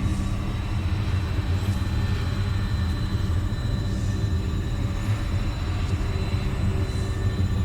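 Dark ambient drone: a steady deep rumble with faint held tones over it, and soft airy swells every second or two.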